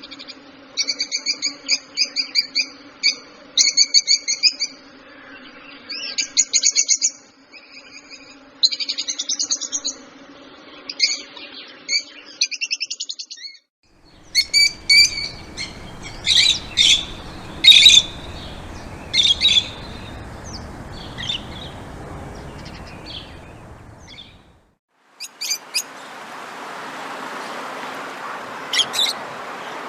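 Small songbirds chirping and tweeting in quick, repeated high phrases. The sound comes in three separate recordings, with a brief silent break about 13 seconds in and another near 24 seconds. The later two have a steady background hiss under fewer, sharper chirps.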